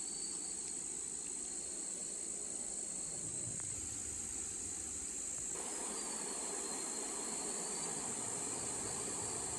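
Steady, high-pitched drone of an insect chorus, over a constant rushing noise that grows louder a little over halfway through.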